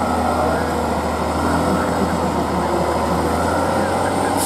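Competition trial truck's diesel engine running steadily under load, a continuous low drone.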